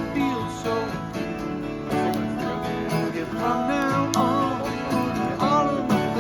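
Live acoustic music: strummed acoustic guitars, with a gliding melody line over them in the second half.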